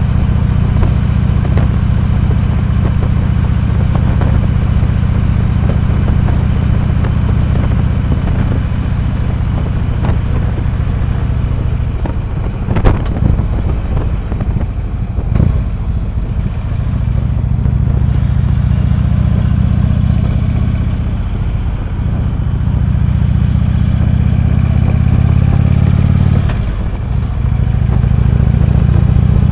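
Harley-Davidson V-twin motorcycle engine running while riding, its note falling and rising a few times. Two sharp knocks come about halfway through.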